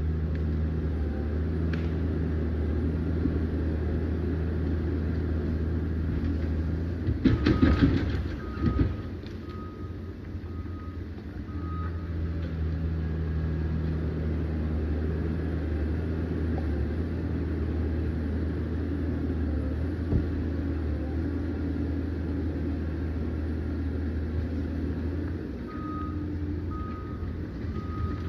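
Liebherr PR 744 crawler dozer's diesel engine running steadily, with a loud clattering crash about seven seconds in. Its reversing alarm beeps for a few seconds after the crash and starts again near the end.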